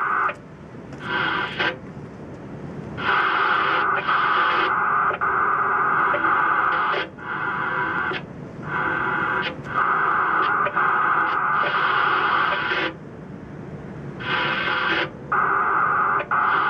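Electronic box wired to an antenna, squawking out modem-like data bursts. The bursts run from a fraction of a second to about two seconds each, in an irregular on-off pattern with short quieter gaps.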